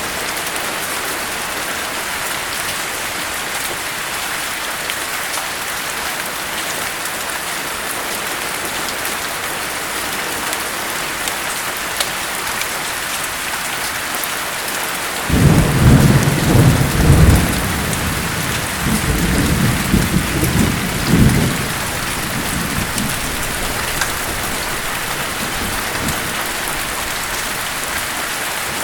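Steady heavy rain falling, with a roll of thunder about halfway through that starts suddenly, rumbles in two surges over roughly six seconds and dies away under the rain.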